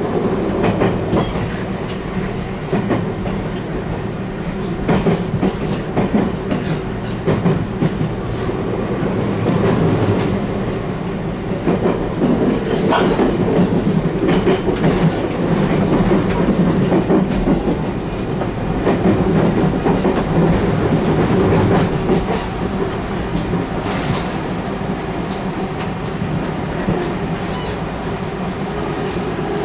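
Interior running sound of a JR West 223-1000 series electric train: a steady rumble with wheels clattering over rail joints and pointwork, many irregular clicks throughout.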